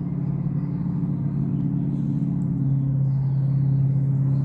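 A steady, low mechanical hum with a second, higher tone above it, unbroken and slightly louder near the end.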